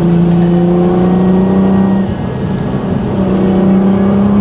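Nissan GT-R R35's twin-turbo 3.8-litre V6 heard from inside the cabin while driving in third gear. It is a steady engine drone that rises a little in pitch, breaks off about two seconds in and returns slightly higher about a second later, over wet-road tyre hiss.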